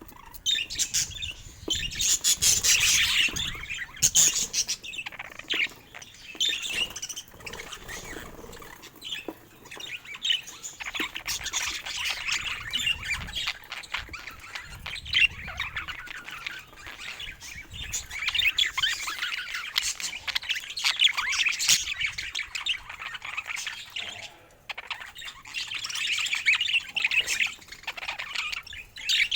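Budgerigars chattering and warbling: a busy, unbroken stream of quick chirps, clicks and squawks, with a short lull about three-quarters of the way through.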